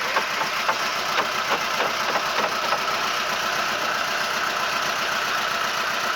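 Boat engine running steadily, with a series of light knocks through the first few seconds.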